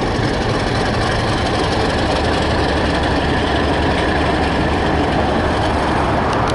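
British Rail Class 31 diesel locomotive's English Electric V12 diesel engine running steadily with a deep, even drone.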